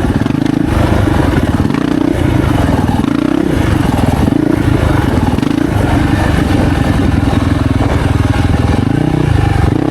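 2025 Yamaha YZ450F's single-cylinder four-stroke engine running hard on a motocross track, its pitch rising and falling continuously with the throttle.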